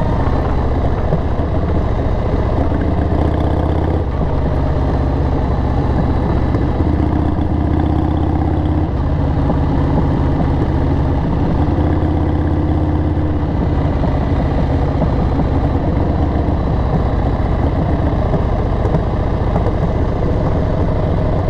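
Harley-Davidson XL883R Sportster's 883 cc air-cooled V-twin running at low revs through Cobra 909 Speedster Short aftermarket mufflers, a steady loping exhaust note that shifts slightly in pitch a few times.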